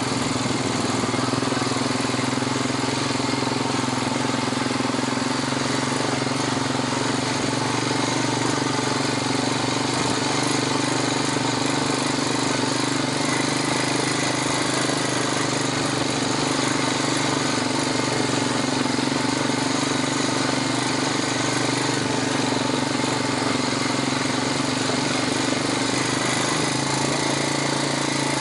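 Four-wheeler (ATV) engine running steadily on a slow trail ride, a constant drone with no change in pitch.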